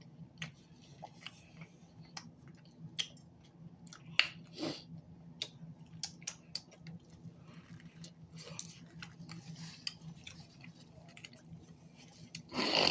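Close-miked chewing and biting of cheesy loaded flatbread pizza, with short wet mouth clicks and smacks. A louder burst of noise comes near the end.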